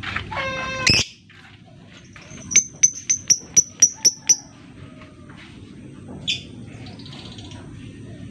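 Lovebird calling: a harsh buzzy call lasting about a second, then a quick run of about eight sharp, high ticking chirps, and a single chirp near the end.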